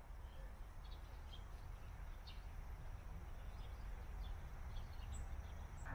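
Faint short bird chirps, scattered every half second or so, over a steady low rumble.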